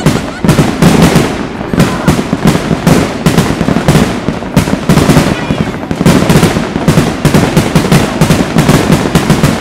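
Fireworks display: a rapid, continuous barrage of bangs and crackles from bursting shells and rising rockets, several a second, coming thicker in the last few seconds.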